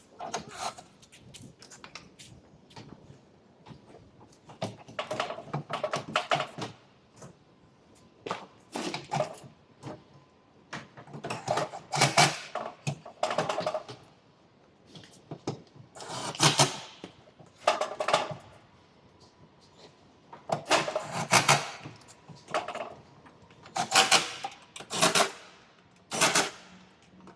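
Repeated bursts of quick, light metallic tapping and clatter, a cluster every second or two, with a faint ring, from tools working on the truck's sheet-metal panel.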